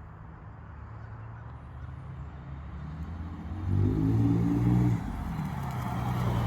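Exhaust of a Ford F150's 4.2 V6 through a new exhaust tip, a low steady engine note that grows louder as the truck approaches, swelling briefly about four seconds in.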